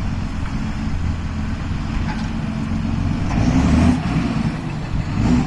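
John Deere 6930 tractor's six-cylinder diesel engine running steadily, its note swelling louder for about half a second some three and a half seconds in and again near the end.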